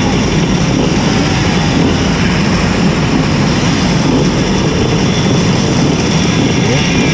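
Simson S51 moped's tuned 90 cc reed-valve two-stroke engine running steadily under way.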